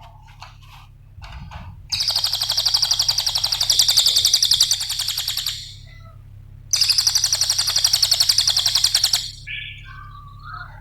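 Cililin songbird singing: a few soft chirps, then two long, very fast trills of rapidly repeated high notes, each a few seconds long, followed by short lower chirps near the end. A steady low hum runs underneath.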